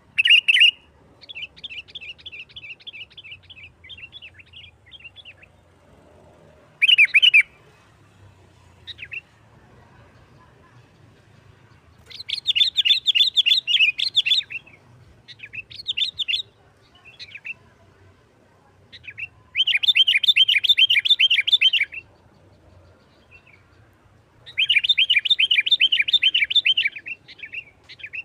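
Sooty-headed bulbul singing: fast chattering strings of repeated notes in bouts of about two seconds, three loud bouts in the second half, with short single calls and a softer run of notes between them.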